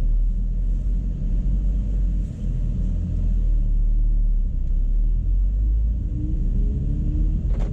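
BMW E60 M5's V10 engine running at low revs while still warming up from a cold start, a steady low rumble whose pitch rises slightly near the end.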